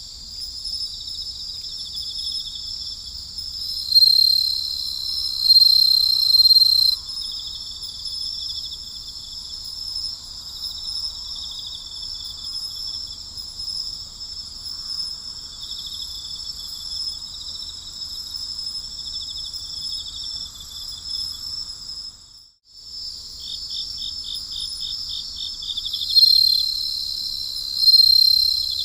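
Night chorus of crickets: a steady high trilling, with a louder, higher trill coming in for a few seconds twice, about four seconds in and near the end. All the sound cuts out for a moment about three quarters of the way through.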